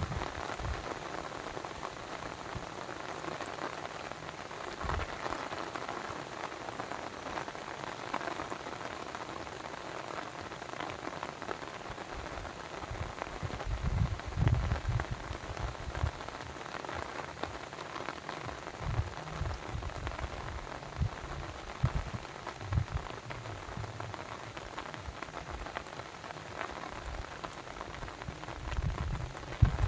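Steady splashing hiss of running water, with irregular low rumbles now and then that are loudest about halfway through and again near the end.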